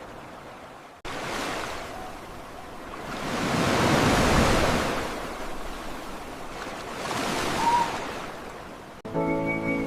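Ocean waves washing in, swelling twice, with an abrupt cut about a second in. Music starts suddenly near the end.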